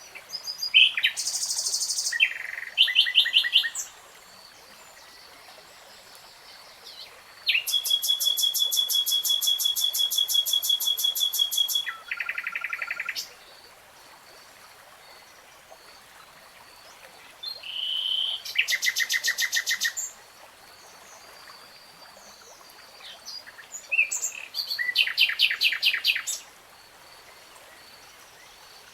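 A nightingale singing in separate phrases of rapid repeated notes and trills. There are four phrases, the longest a steady run of fast repeated notes lasting about five seconds, with pauses of several seconds between them.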